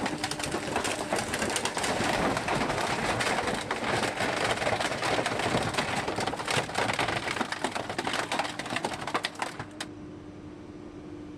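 Scrapped car body being crushed: sheet metal and glass crunching and crackling with many sharp snaps. It stops abruptly near the end, leaving a steady machine hum.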